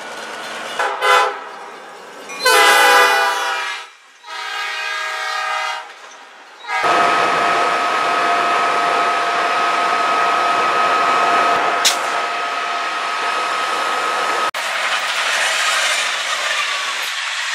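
Diesel locomotive horns sound three times: a short blast, a long loud one, then a quieter one. Then trains pass close with a steady rumble and rush of wheels on rail, carrying a steady whine, and the sound changes abruptly a few seconds before the end.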